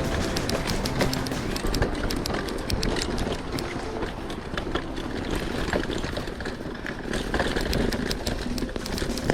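Mountain bike ridden fast over a rough dirt trail: steady tyre and wind noise with many quick rattles and clacks from the bike jolting over bumps.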